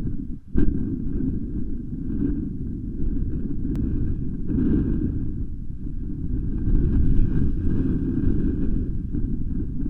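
Wind buffeting the nest camera's microphone: a steady low rumble that swells and eases with the gusts, with a brief dropout about half a second in.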